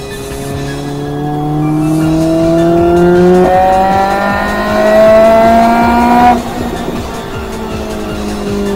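Honda Civic Type R EK9's B16B four-cylinder engine breathing through a Mugen 4-1 header and twin-loop exhaust, revving up under acceleration. The pitch steps down at an upshift about three and a half seconds in, then climbs again. About six seconds in the revving stops and the sound falls away suddenly to a lower, steadier note.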